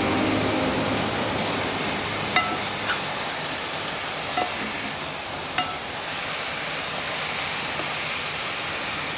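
Sliced mushrooms sizzling in a wide metal pan, a steady hiss, while they are stirred with a wooden spoon. Four light knocks, each ringing briefly, come in the first half as the spoon hits the pan.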